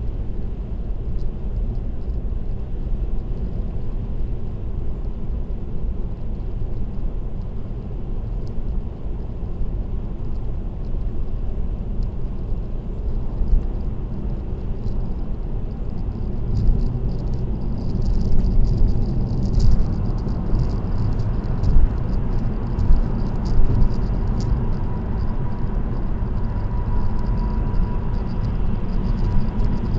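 Car driving on an expressway: steady tyre and road rumble, with a light rattle that gets busier and louder about halfway through.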